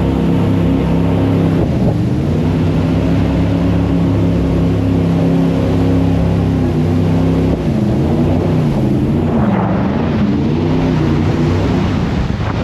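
Jet boat engine running at speed. Its pitch dips briefly about two seconds in, holds steady, then rises and falls repeatedly in the second half as the revs change.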